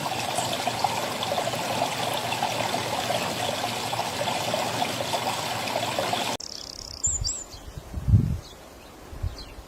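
Steady rush of running water, like a trickling stream, that cuts off abruptly about six seconds in. After it comes a quieter outdoor background with a brief high bird chirp and a few dull low thumps, the loudest just after the chirp.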